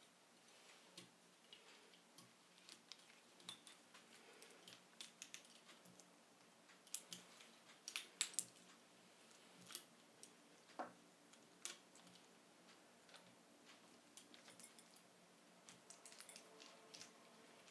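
Faint, irregular clicks and light taps from hand work with small parts and tools. The loudest cluster comes about halfway through.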